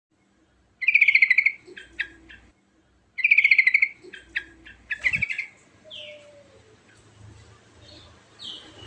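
Yellow-vented bulbul singing: two loud, rapid trilled phrases about two seconds apart, each followed by a few shorter notes, then softer scattered calls. A brief thump about five seconds in.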